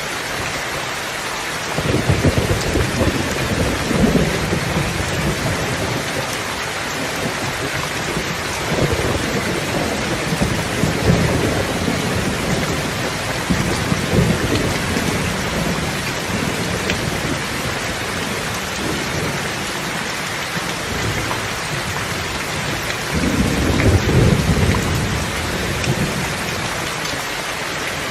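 Steady heavy rain hissing, with low rolls of thunder rumbling in several swells, the strongest about two to five seconds in and again near the end.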